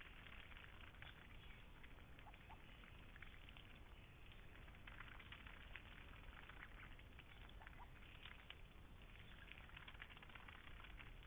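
Faint, dense crackling made of many small irregular ticks over near silence.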